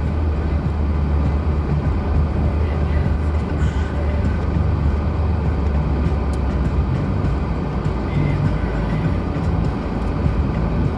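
A Lada Granta's four-cylinder engine running as the car drives along, a steady low drone with road noise over it.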